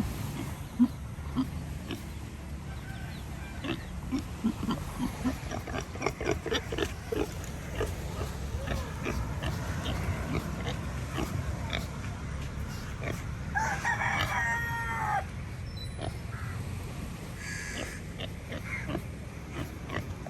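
Pigs grunting in short low bursts over a steady low rumble, with a rooster crowing once about fourteen seconds in.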